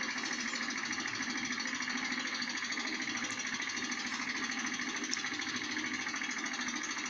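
A small engine running steadily, with a fast, even chatter.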